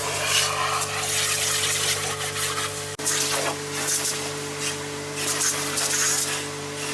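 Water rushing, with a steady machine hum under it.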